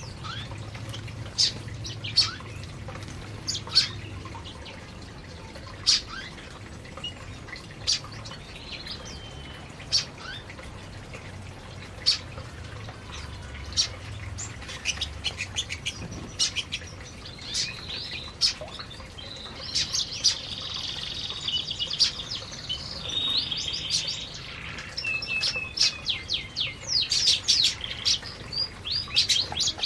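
Canaries chirping with scattered short, sharp calls, then a stretch of warbling, trilled canary song in the second half and a quick run of chirps near the end.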